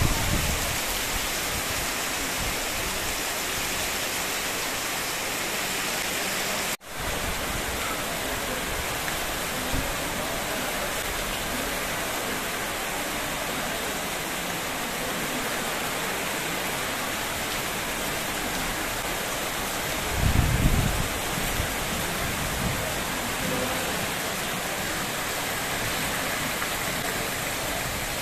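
Heavy rain pouring down into a paved lane, a steady hiss of rain and splashing water. It cuts out for an instant about a quarter of the way in, and about two-thirds through there is a brief low rumble.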